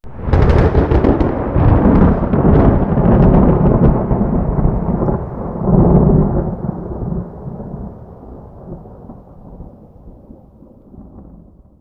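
Thunderclap: a sudden crack that breaks into crackling and a rolling rumble, swells again about six seconds in, then slowly fades away.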